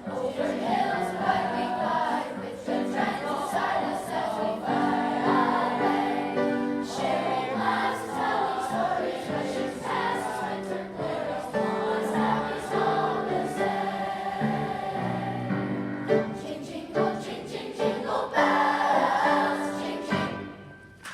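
A school choir singing a song with instrumental accompaniment, heard from the audience; the song ends near the end.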